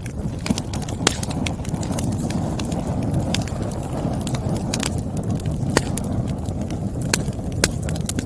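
Wood fire burning with a steady low rush of flame and irregular sharp crackles and pops from the burning logs, the loudest about a second in and near the end.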